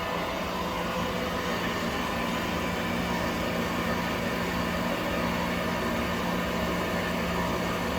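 Template-following wood copy lathe running with a steady hum and whirr as its feed travels along the workpiece, the feed reversed after reaching its stop.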